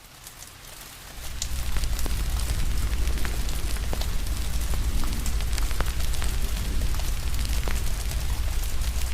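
Crackling fire mixed with steady rain: many sharp pops and snaps over a steady hiss and a low rumble. The sound is faint at first and swells back to full level about a second in.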